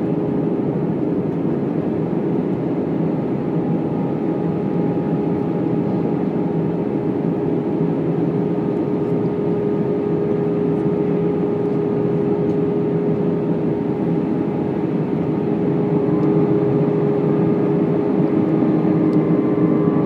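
Airbus A319 cabin noise in flight: a steady jet engine drone and airflow with a held tone, growing slightly louder and changing pitch in the last few seconds.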